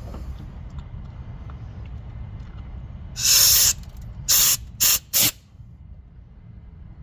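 Compressed-air blow gun firing through a Chevy Avalanche EVAP vent hose, to check that air passes through it without blockage. There are four loud hissing blasts about three seconds in: one of about half a second, then three short ones in quick succession.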